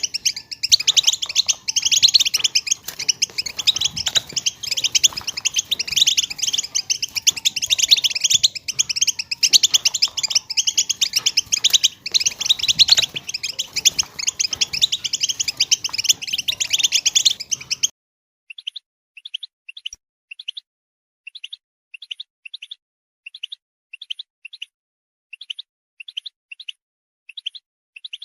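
Many European goldfinches giving rapid, overlapping twittering calls, the female call notes that are used to stimulate males to sing. About two-thirds of the way through the chorus cuts off suddenly and gives way to a clean run of short, separate goldfinch chirps, roughly one to two a second.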